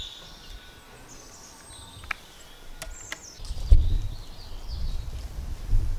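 Small birds chirping intermittently in a cattle shed, with a few sharp clicks about two to three seconds in. From about halfway, a louder low rumbling noise as the camera is moved about quickly.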